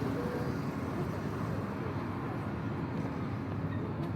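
Steady low rumble of city traffic passing on the street.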